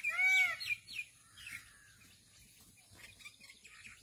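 A bird gives one loud call with a rising-then-falling pitch, the last of a repeated series, ending about half a second in. A few quick, high falling chirps follow, then only faint birdsong.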